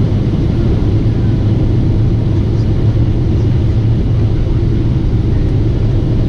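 Steady low rumble of a Boeing 747-8 airliner, engine and airflow noise holding even without change.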